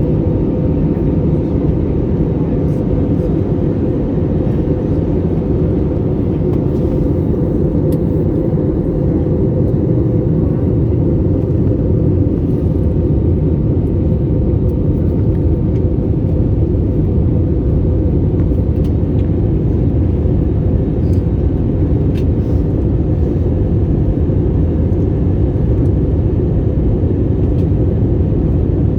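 Steady low rumble of a Boeing 787-8 jet airliner in flight, its engine and airflow noise unbroken, with a faint steady whine above it.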